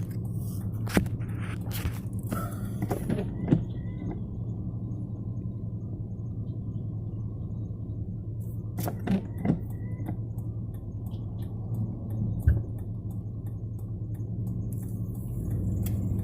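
Vehicle engine idling with a steady low hum, with a few sharp clicks and thunks over it.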